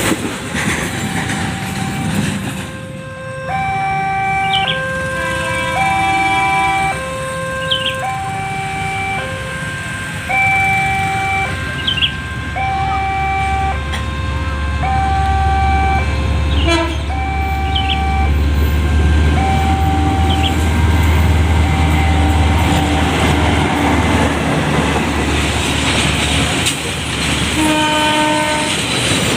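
A two-tone warning signal alternates high and low, about a note every second and a half, for roughly the first two-thirds. A freight train hauled by a CC202 diesel-electric locomotive passes with a deep engine rumble that builds through the middle and fades near the end.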